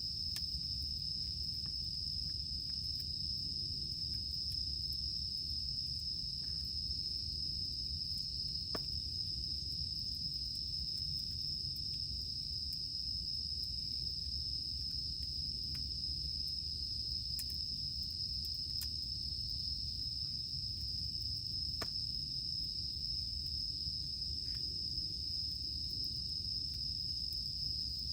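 Cicadas droning in one steady, unbroken high-pitched band, over a wood campfire crackling with scattered sharp pops and clicks.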